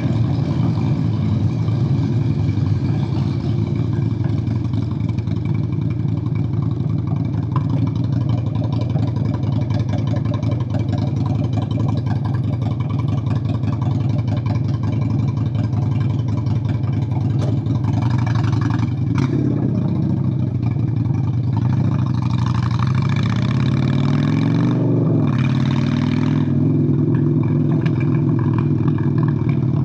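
Honda Steed VLX 600 V-twin motorcycle engine running under way, heard from the rider's seat. About two-thirds through, the revs dip, then climb steadily for a few seconds and fall sharply, as with a gear change, before holding steady again.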